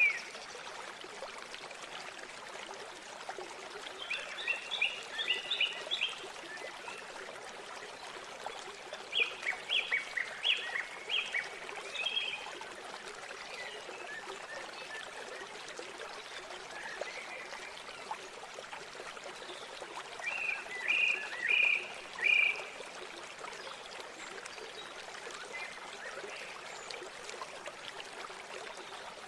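River water running steadily. Three times a small animal gives a burst of rapid, repeated high calls, each lasting two to three seconds: about four seconds in, about ten seconds in, and about twenty-one seconds in.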